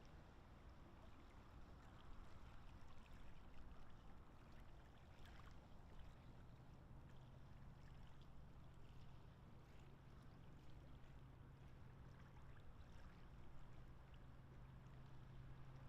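Near silence: faint outdoor ambience with a steady low hum that grows a little stronger partway through, and a few faint ticks.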